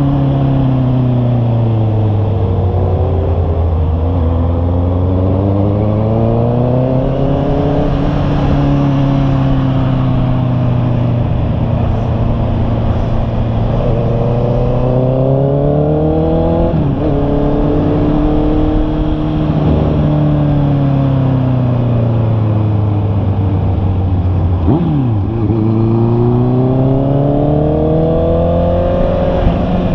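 Honda CB650R's inline-four engine running under way, its pitch sliding down and back up several times as the bike slows and speeds up again.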